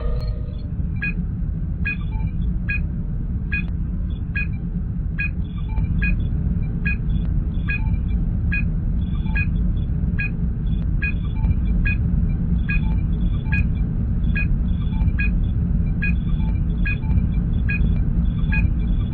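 Sci-fi starship ambience sound effect: a steady low engine rumble with a short electronic scanning blip repeating a little faster than once a second.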